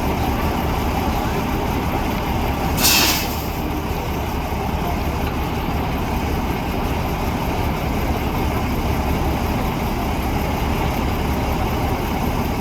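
Heavy-haul truck's diesel engine running low and steady, with one short, loud hiss of air from the air brakes about three seconds in.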